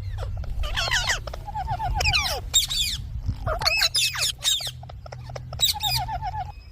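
Indian ringneck parrot chattering in four or five short bursts of quick squawks and warbling whistled notes, over a steady low rumble.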